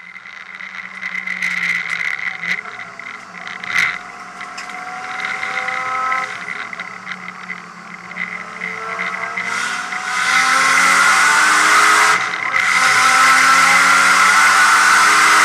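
Nissan R32 Skyline's RB25 turbocharged straight-six accelerating hard, heard inside the stripped cabin: the revs climb and drop back at each gear change, getting louder about ten seconds in.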